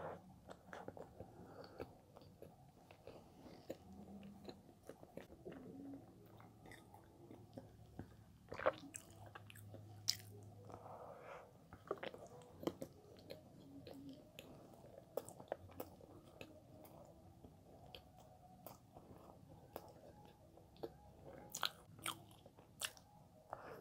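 Close-miked chewing and biting of castella bread topped with cream cheese, quiet, with small wet mouth clicks throughout and a few sharper ones.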